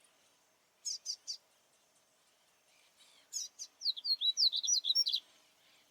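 Papa-capim baianinho (Sporophila seedeater) singing: a short phrase of three quick falling high notes about a second in, then a longer, faster run of high whistled notes in the second half.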